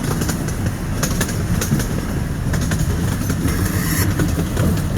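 Amusement-park train heard from aboard, running along its track: a steady low rumble with irregular clicks from the wheels and rail joints, and a brief hiss about three and a half seconds in.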